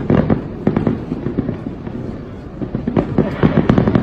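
Aerial fireworks display: a steady series of bangs and crackling pops, coming thicker in a rapid flurry near the end.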